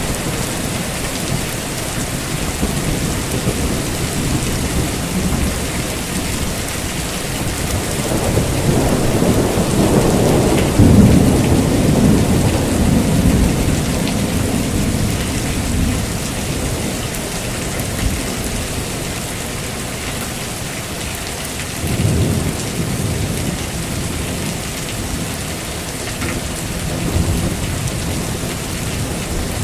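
Heavy rain falling steadily, with a long roll of thunder that builds about eight seconds in, peaks a few seconds later and fades out, and a shorter rumble of thunder later on.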